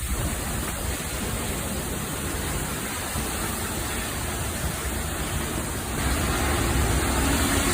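Heavy storm precipitation beating down, a steady rushing hiss that grows louder about six seconds in.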